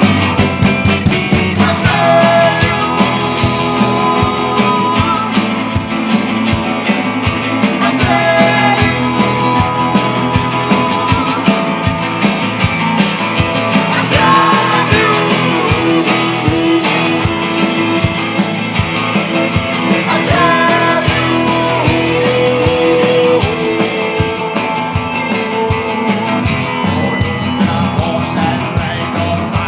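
Rock band playing a psychedelic rock piece: steady drum hits under electric guitar and bass, with bending, sliding guitar lines.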